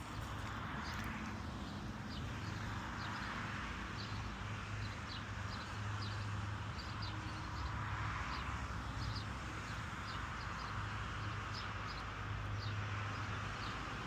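Outdoor ambience: a steady low hum and an even hiss, with many short, high chirps scattered throughout.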